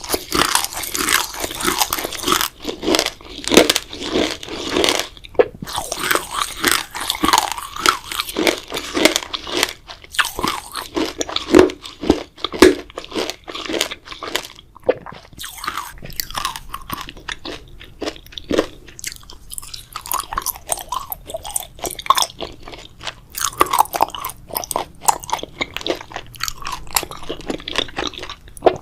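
Close-miked mouth sounds of biting and chewing grape jelly: a dense run of short, wet, crisp smacks and squelches with only brief pauses.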